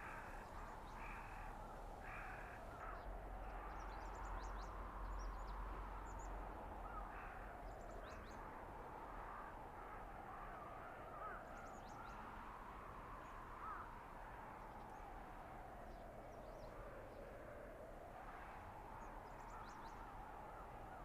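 Blizzard wind in a winter forest, a steady rush with a howling tone that slowly rises and falls in pitch. A bird calls several times in the first few seconds.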